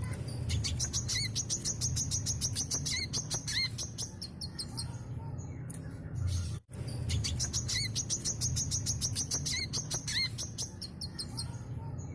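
Brown-throated sunbird (kolibri kelapa) singing a fast, unbroken chattering song of high, rapid notes. The song cuts out sharply about halfway through and restarts in the same pattern.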